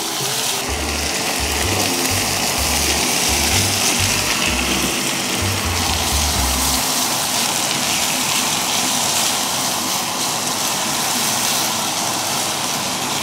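Sliced ginger, red onion, garlic and shallots sizzling steadily in hot oil as they are stir-fried in an enamelled pot. Background music with a bass line plays under the sizzle for the first several seconds, then stops.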